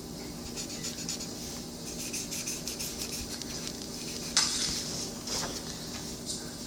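Spoon clinking and scraping in a cereal bowl, with small scattered clicks and a sharper clatter about four seconds in.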